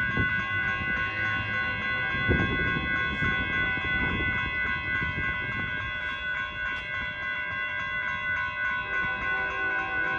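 A pair of EMD GP60 diesel-electric locomotives running light past at close range: a steady engine rumble with a few wheel knocks over rail joints. Several steady high tones sound throughout.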